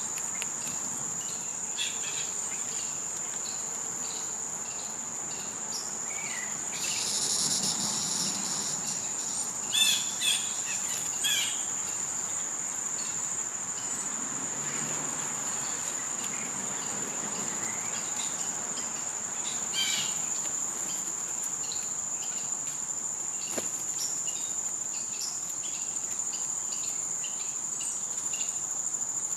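Steady high-pitched drone of a summer insect chorus, with a few short bird chirps about ten seconds in and again near twenty seconds.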